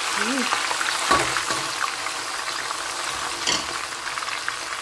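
Onions and pork bones sizzling in hot oil in a deep pot, a steady crackle of frying. A single knock about a second in.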